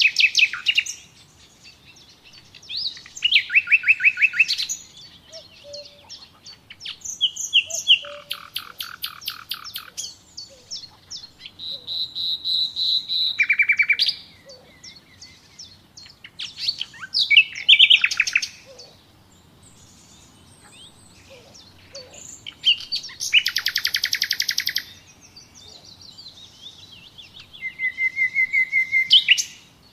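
Songbirds singing outdoors: a short, loud phrase of fast trills and whistles every few seconds, with fainter chirps in between. One phrase is a steady whistled note about halfway through.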